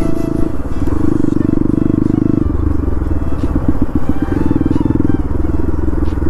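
Bajaj Pulsar NS200's single-cylinder engine running while riding, heard close up from on the bike. The note drops to a lower, pulsing beat about two and a half seconds in as the throttle is eased, picks up again around four seconds, then eases and picks up once more near the end.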